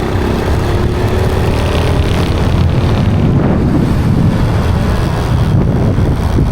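Wind rushing over the microphone with a vehicle engine running underneath, as on a moving motorcycle; a faint engine hum drifts slightly in pitch in the first couple of seconds.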